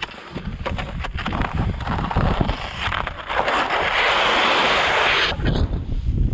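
Strong wind buffeting the microphone with a low rumble. A loud, even hiss rises for about two seconds after the middle, then cuts off sharply.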